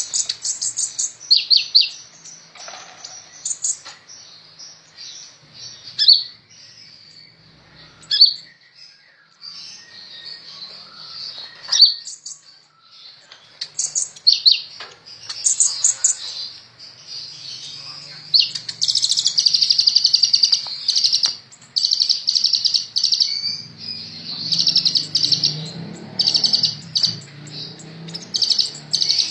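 Kolibri ninja sunbird singing energetically in a rapid string of high, thin chirps and trills. The song becomes denser and near-continuous in the second half.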